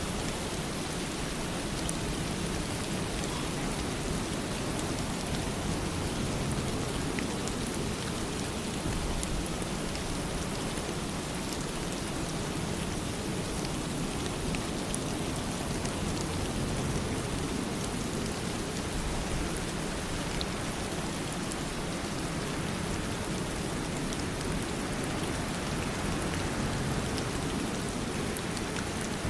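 Steady rain falling on a surface, a constant patter of drops with many fine individual drop ticks.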